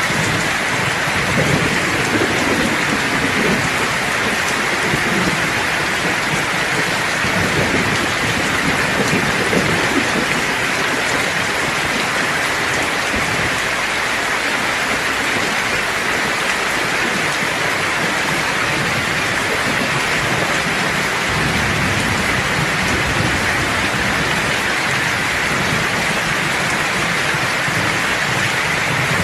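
Steady, heavy rain hissing, with long, low rolls of thunder rumbling near the start and again later on.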